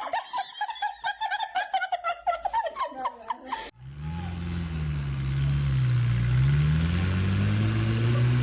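High-pitched laughter in quick bursts, then after a sudden cut a motor vehicle's engine running, its pitch rising and falling, over a steady rushing noise.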